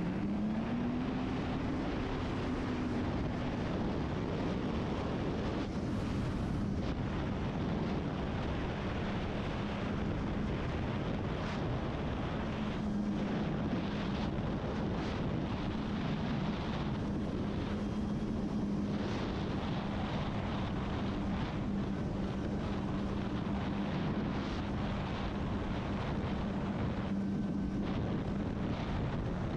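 Kawasaki Ultra 310 jet ski's supercharged four-cylinder engine running at a steady cruise, with water and wind rushing past. Its pitch rises briefly about a second in, then settles and holds.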